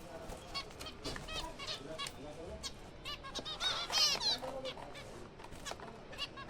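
A colony of zebra finches calling: many short chirps, overlapping, thickest about four seconds in.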